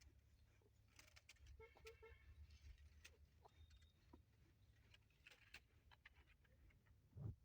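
Near silence: a faint low hum with scattered faint clicks, a brief faint pitched sound about two seconds in, and a soft thump near the end.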